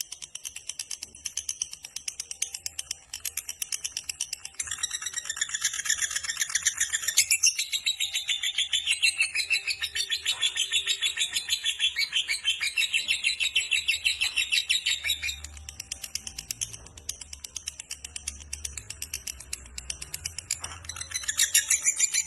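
Lovebird giving a long ngekek: a rapid, unbroken chattering trill of shrill high notes, strongest through the middle, easing for a few seconds near the end and then picking up again.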